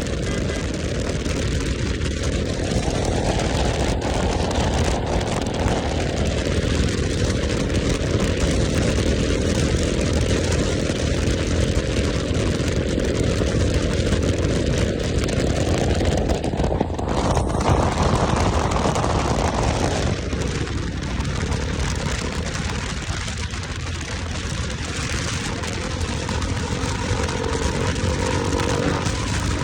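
Motorcycle running on the move, a steady engine and rushing noise that swells twice, as if under throttle.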